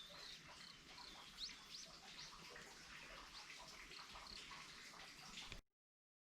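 Faint outdoor ambience: an even hiss with scattered small clicks and a few brief high chirps, cutting off abruptly near the end.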